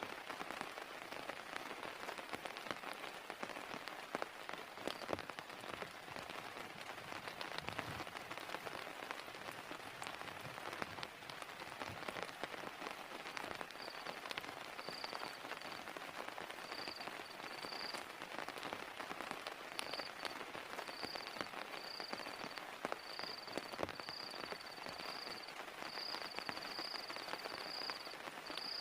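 Heavy rain falling steadily, with many separate drops striking close by. From about halfway in, a faint high-pitched chirp repeats in short pulses, coming more and more often toward the end.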